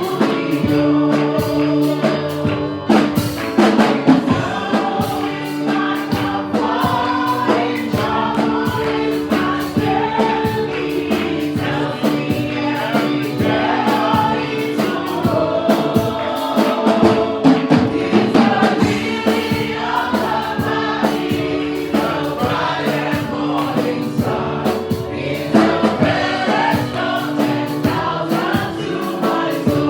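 Church worship band and choir singing a gospel praise song, with drums and keyboard accompaniment.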